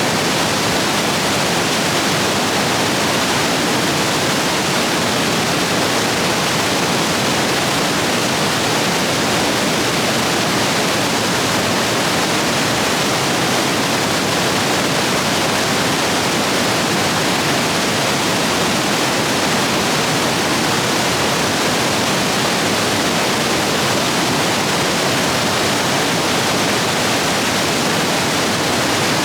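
Rapids running high after heavy rain: a loud, steady rush of water.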